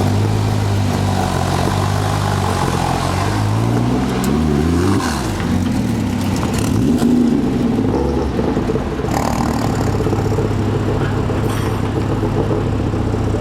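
Ford Fiesta RS WRC rally car's turbocharged four-cylinder engine revving and accelerating, its pitch climbing and falling in sweeps through the middle of the clip before settling to a steady drone.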